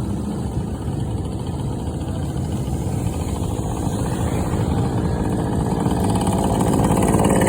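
Motorcycle engines running, a steady engine sound that grows louder near the end.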